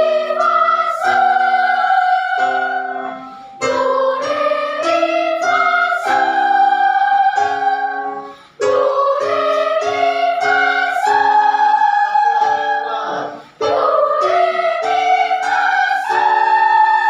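Children's choir singing a melody with instrumental accompaniment, in four phrases that each climb in pitch, with short breaths between them.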